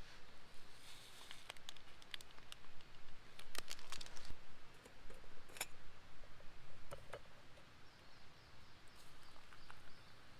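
Wood fire crackling in a stone hearth: sparse, irregular sharp pops and ticks, a few louder ones a third and a half of the way through.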